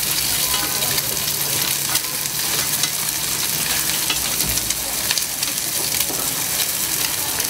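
Food frying with a steady sizzle, with scattered sharp clicks as it is stirred and turned.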